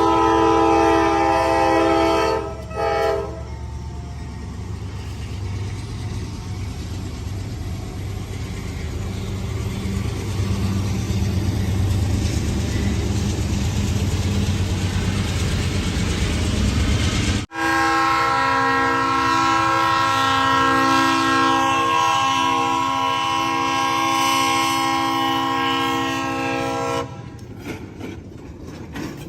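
Multi-note train horn blowing for about two and a half seconds, then a short toot, followed by the steady rumble of a passing train. After an abrupt cut, a train horn sounds again for about nine seconds, with some of its lower notes breaking in and out, before fading to a quieter train rumble.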